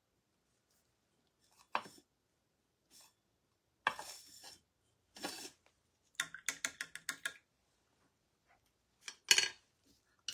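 Painting tools being handled: scattered light clinks and taps, with a quick run of about eight clicks a little past halfway and a sharper clink near the end.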